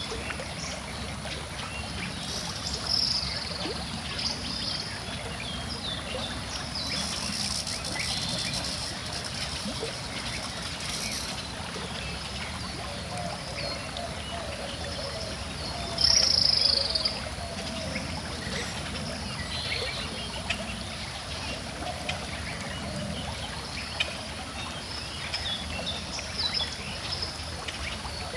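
Gently flowing stream with birds chirping and singing over it. One bird call stands out loudest about halfway through.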